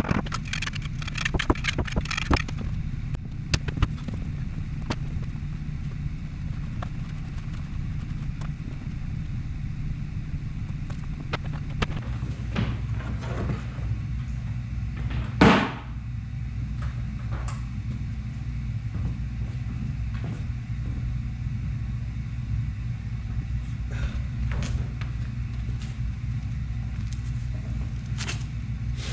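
A steady low motor or engine hum, its pitch shifting slightly about twelve seconds in, with scattered light clicks and knocks and one louder brief swishing sound about halfway through.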